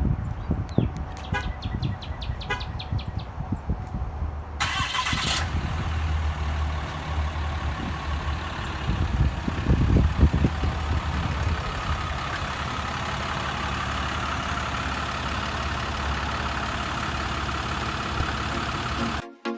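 2018 Ram Mega Cab's 6.7-litre Cummins turbo-diesel being remote-started: a run of quick clicks, then the engine catches with a sudden burst about four and a half seconds in. It swells briefly around ten seconds in, then settles to a steady idle.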